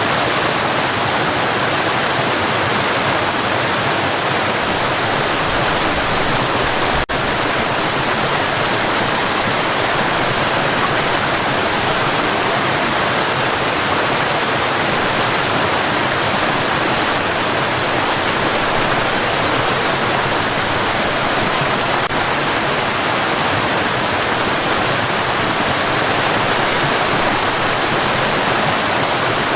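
Steady white noise: an even, unbroken hiss across the whole range, with a split-second dropout about seven seconds in.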